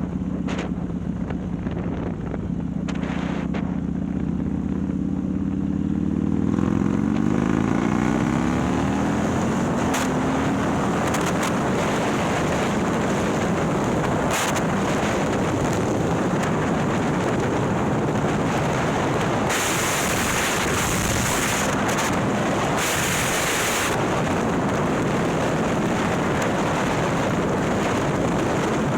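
A 130ci Milwaukee-Eight V-twin Harley-Davidson engine with a ThunderHeader exhaust, pulling under acceleration, its pitch rising over the first several seconds. After that, heavy wind buffeting on the microphone at speed mostly drowns out the engine.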